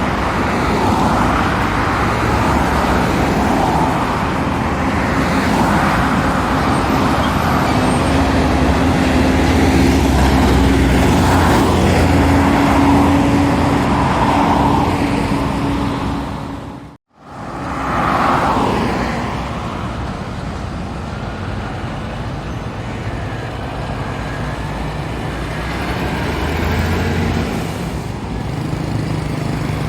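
Roadside traffic with heavy trucks passing, their engines droning, loudest in the first half. The sound breaks off abruptly about two-thirds through, then steadier passing traffic resumes.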